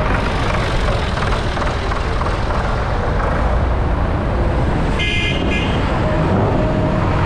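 Tractor engines running with a steady, loud low rumble. A horn toots briefly about five seconds in.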